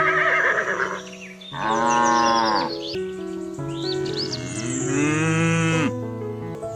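Two long cow moos, each rising then falling in pitch, over background music with birds chirping.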